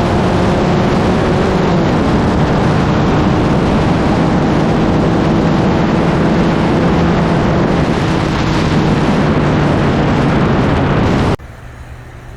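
Turbocharged car engine running hard at speed, loud and steady, under heavy wind and road noise. Near the end it cuts off abruptly to a much quieter low engine hum.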